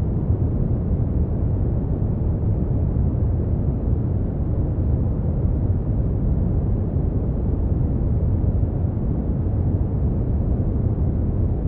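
Brown noise: a steady, deep rushing hiss with most of its energy in the low end and little treble, unchanging throughout.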